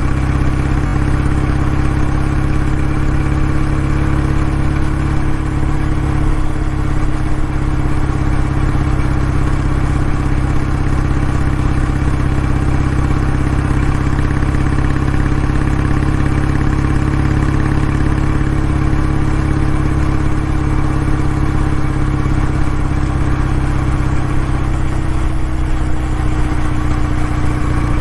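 Exhaust note of a Kawasaki W650's air-cooled parallel-twin engine running steadily at an almost even pitch. The pitch eases slightly near the end.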